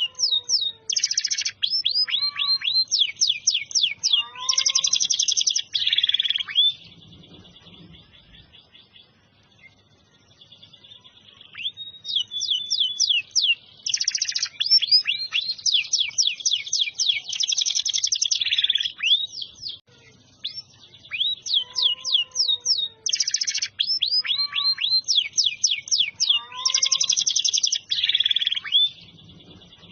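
Domestic canary singing: long phrases of fast trills and rapidly repeated high notes, broken by a few seconds' pause after the first phrase and a short one midway, in full continuous song.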